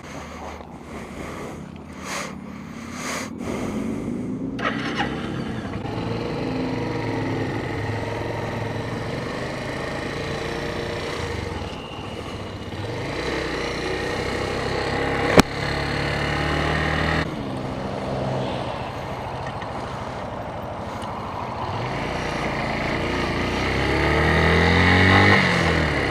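Suzuki TU250X's single-cylinder engine running under way, its pitch stepping down and climbing again through the gears and rising near the end as it accelerates. There is a sharp click about fifteen seconds in.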